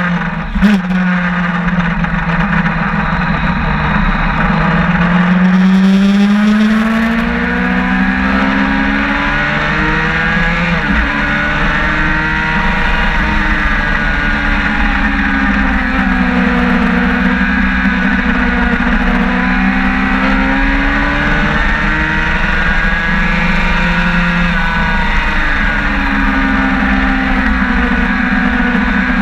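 Sportbike engine at speed under an onboard camera, its pitch climbing steadily and then dropping sharply about eleven seconds in, as with a gear change, then rising and falling again with the throttle through the corners.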